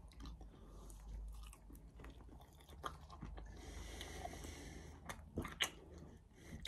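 A person chewing a mouthful of salad close to the microphone, with a few sharp clicks of a metal fork against the bowl about three seconds in and again around five seconds in.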